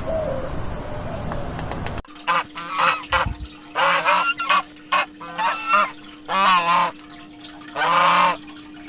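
Repeated loud honking bird calls, about a dozen short calls coming in quick runs, the last ones longer, beginning after a sudden cut about two seconds in from a different, steadier sound.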